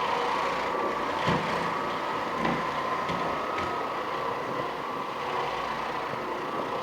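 Oreck Orbiter floor machine running steadily with its nylon carpet brush scrubbing carpet, a humming motor with a few light knocks.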